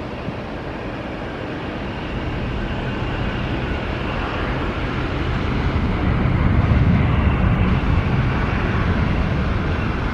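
Jet engines of a landing Boeing 787, a rumble that grows louder to a peak about six to seven seconds in, then holds.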